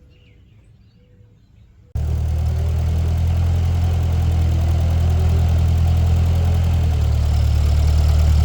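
1948 Ford 8N tractor's four-cylinder engine idling steadily, coming in abruptly about two seconds in after a quiet stretch.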